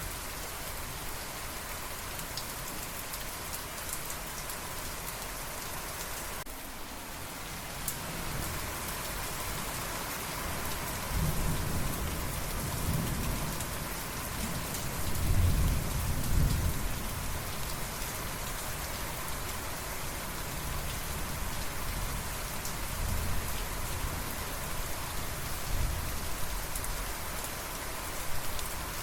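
Steady rain falling, with thunder rolling in the middle: a long low rumble that builds from about a third of the way in and peaks just past the middle. Fainter rumbles follow later.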